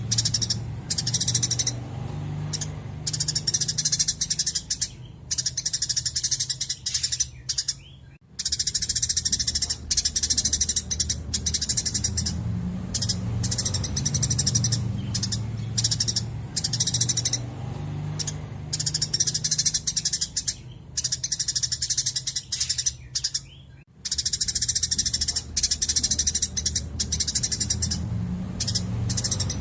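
Songbird 'masteran' training recording: dense, rapid high chirping and trilling birdsong over a low pulsing hum, the song briefly breaking off twice.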